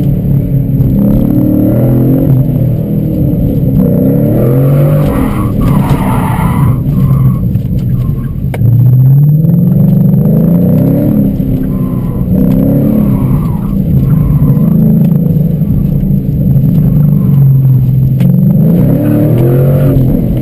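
2012 Mustang GT's 5.0-litre V8 with a cat-back exhaust, heard from inside the cabin, revving up and easing off over and over as the car is driven hard around an autocross course. The Nitto NT01 tyres squeal at times as the car slides through the corners, most around five to seven seconds in.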